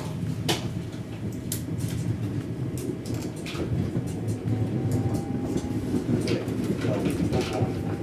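Passenger train running on the line, heard from inside the carriage: a steady low rumble with scattered sharp clicks and rattles, and a faint rising whine about halfway through.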